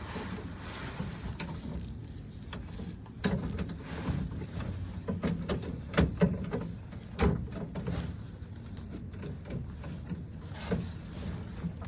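Irregular metal knocks and clicks from a truck's spare tire hoist mechanism being worked by hand, over a steady low background rumble.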